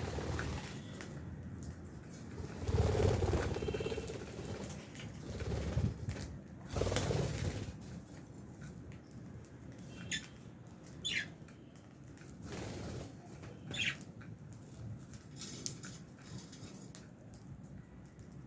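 Lovebirds giving a few short, sharp chirps, amid rustling and light pattering, with two louder rustling stretches in the first half.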